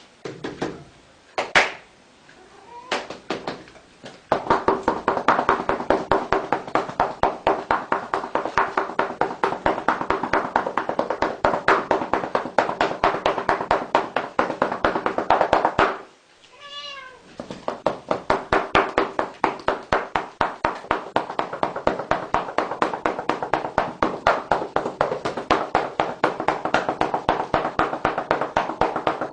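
Domestic cat crying under rapid rhythmic thumps, about three or four a second, through most of it, with one wavering meow standing out about two-thirds of the way through.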